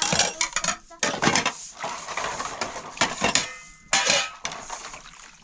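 A run of irregular sharp knocks and cracks, like wood being handled or broken, loudest near the start, about a second in, and around three to four seconds.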